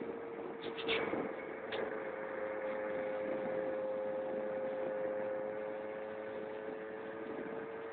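Keeway Hurricane scooter running at a steady cruising speed: a steady whine over a rushing noise, its pitch edging up slightly and easing back near the end. A few short clicks about a second in.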